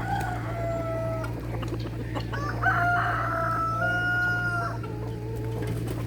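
Roosters crowing twice, the second crow longer than the first, over a steady low hum.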